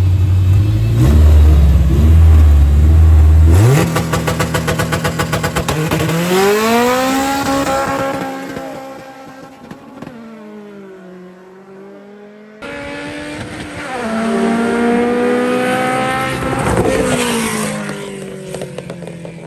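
Drag cars, one of them an Infiniti Fuga, held at high revs on the start line, then launching and accelerating away with engine pitch climbing through the gears and a rapid stutter just after the launch, fading into the distance. About 13 seconds in the sound cuts abruptly to another run-up of engine noise whose pitch drops as a car passes.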